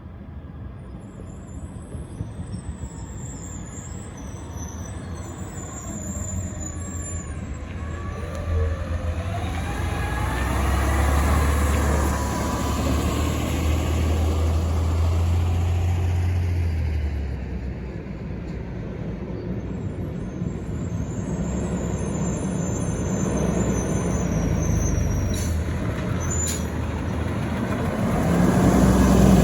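Diesel garbage truck driving in, its deep engine drone growing louder to a peak about halfway through and then easing off, with a whine over the engine. Another heavy vehicle's engine comes in loud near the end.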